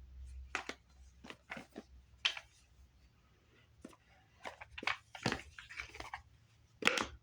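A series of irregular short clicks and taps, close to the microphone, from small objects being handled.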